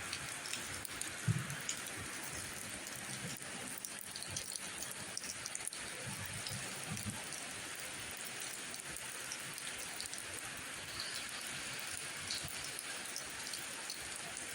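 Steady rain falling, a constant even hiss of drops with scattered sharper drop ticks and a few soft low thuds.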